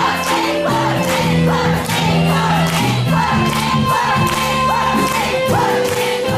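Live band music with a steady beat and long held notes, with audience voices cheering over it.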